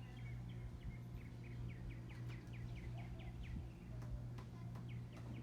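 Ceiling fan running on medium speed with a steady low motor hum. Over it comes a rapid run of short, high, falling chirps, about five a second, which thin out near the end.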